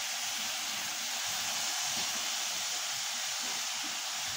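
Chopped zucchini and chickpeas sizzling steadily in hot oil in a pot while being stirred with a spatula.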